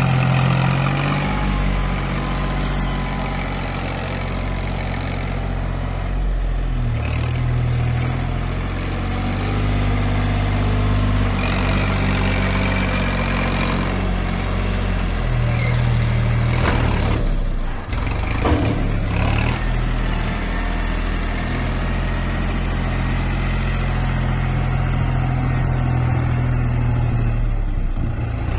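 Tractor engine running continuously, its pitch shifting up and down at times, with a brief patch of knocks about two-thirds of the way through.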